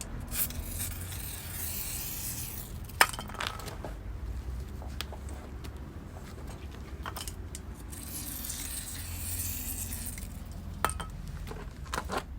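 Metal tools and parts clinking during hand work on a motorcycle's rear wheel, with a sharp clink about three seconds in and more near the end, over two stretches of hissing.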